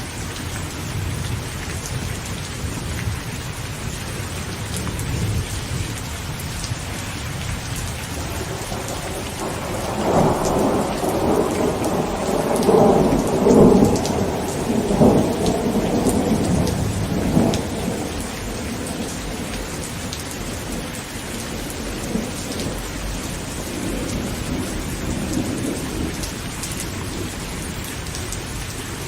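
Heavy rain falling steadily on a tent. A long rolling thunderclap builds about ten seconds in, peaks a few seconds later and fades out, and a fainter rumble of thunder follows near the end.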